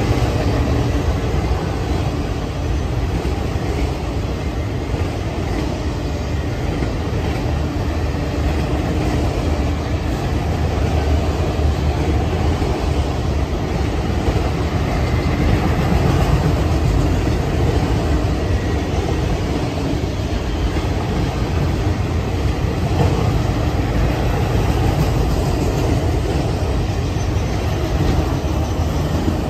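Freight train of enclosed autorack cars rolling past close by: a steady rumble of steel wheels on rail.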